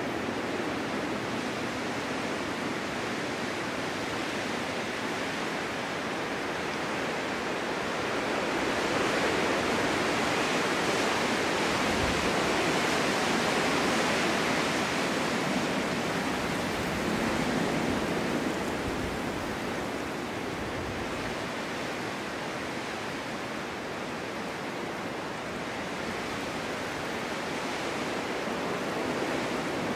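Snowstorm wind blowing in a steady rush, swelling louder for several seconds in the middle before easing back.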